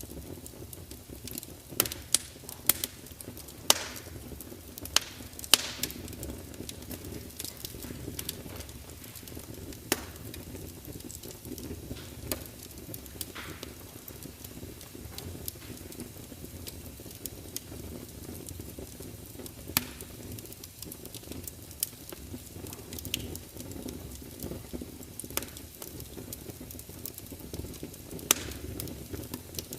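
Large wood fire burning in a fireplace: a steady low rumble and hiss of flames with sharp, irregular crackles and pops from the burning logs, the loudest pops bunched in the first six seconds and again near the end.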